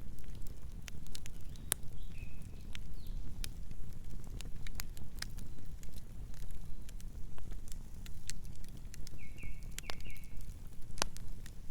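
Campfire burning: wood crackling and popping at irregular moments over a steady low rumble of the flames. Short high chirps come in twice.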